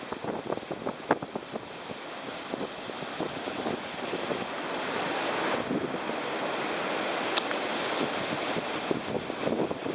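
Choppy sea waves slapping and splashing in strong typhoon winds, with wind buffeting the microphone. The rush of water and wind swells through the middle, with a sharp click about seven seconds in.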